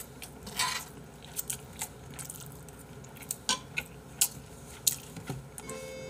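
A person eating close to the microphone: chewing and biting, with scattered short wet smacks and clicks of the mouth.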